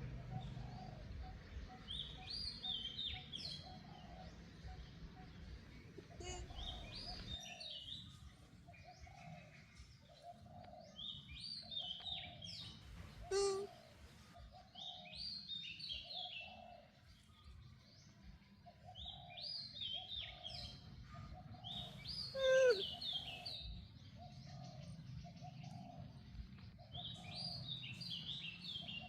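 Wild birds calling: a short high song phrase repeats every four or five seconds over a low cooing note that repeats about once a second. Two louder calls glide downward in pitch, about a third of the way in and again near three-quarters.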